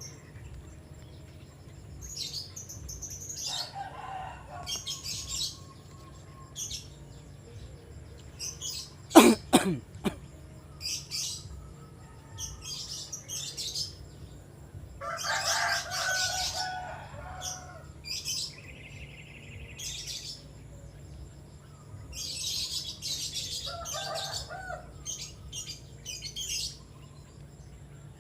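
Small birds chirping in repeated short, high bursts, with a few lower calls mixed in. There is a sharp knock about nine seconds in.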